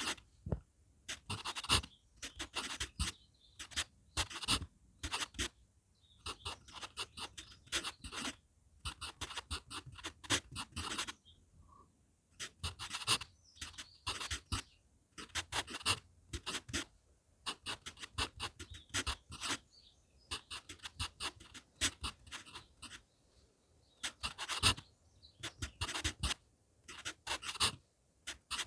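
HB pencil writing on manuscript paper, close up: quick runs of scratchy strokes with short pauses between them.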